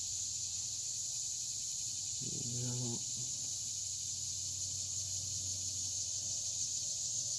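A steady high-pitched chorus of insects, most likely crickets, trilling continuously.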